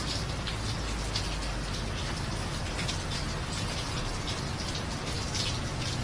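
Steady rain falling, with scattered sharper drips and splashes over the even hiss and a low rumble underneath.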